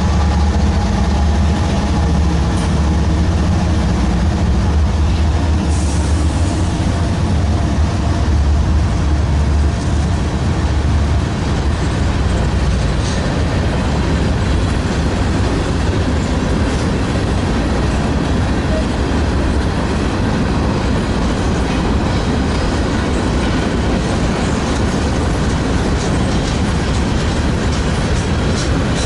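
Freight train passing: the low drone of diesel locomotive engines for roughly the first ten seconds, then the steady rumble and clickety-clack of freight cars rolling by on the rails.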